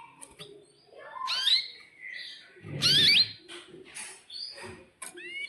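Domestic canary singing loud, quick rising whistled sweeps in short phrases, the loudest about three seconds in.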